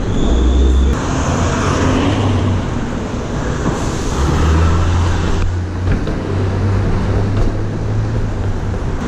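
Street traffic noise with a steady low rumble of passing vehicles.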